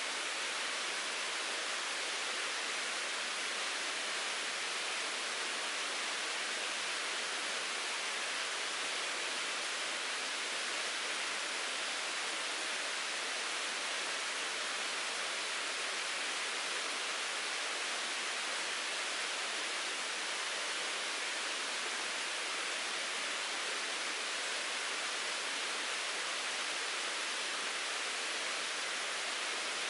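Mountain stream babbling and rushing steadily, an even hiss of flowing water with no breaks or changes.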